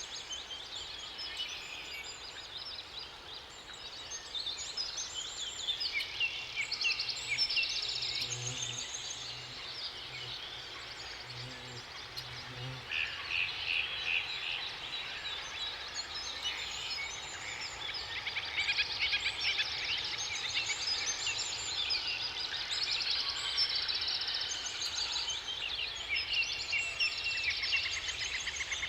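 Many songbirds singing at once, with overlapping trills and chirps. Partway through, a low call pulses about a dozen times over several seconds beneath the song.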